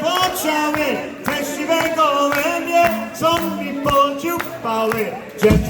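Polka band playing live: melody lines over a steady beat, with a heavy low hit near the end.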